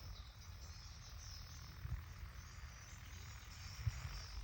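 Insects chirring steadily, with a low rumble underneath.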